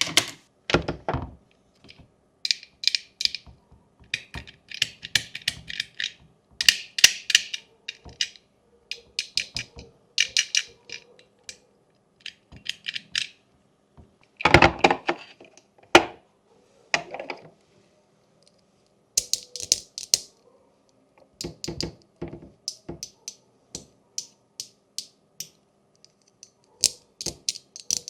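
Plastic fidget board toy being worked by hand: bursts of rapid ratcheting clicks, each about a second long, broken up by a few louder knocks, the loudest about halfway through.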